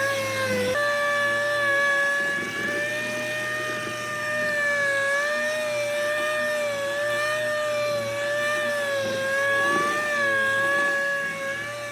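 A small high-speed motor, like a rotary power tool, running with a steady high whine. Its pitch wavers slightly up and down, with a brief break and a small step up in pitch just under a second in.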